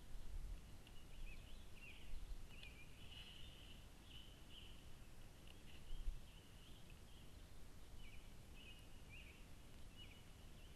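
Faint bird chirps and trills, high-pitched and repeated in short phrases, over a low steady rumble of background noise, with a couple of soft bumps.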